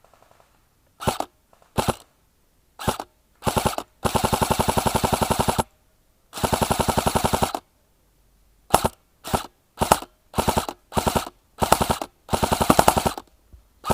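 Specna Arms SA-B05 M4-style electric airsoft rifle firing in full auto: a rapid, even rattle of shots in bursts, a few short ones, then two long bursts of about a second and a half, then a quick string of short bursts near the end.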